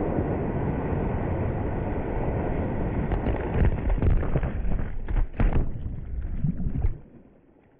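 Small motorboat under way: steady engine and water noise with wind buffeting the microphone, and irregular thumps in the second half. It cuts off suddenly near the end.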